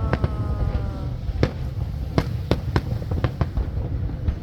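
Nagaoka fireworks going off: a series of irregular sharp bangs over a continuous low rumble, with a short falling tone in the first second.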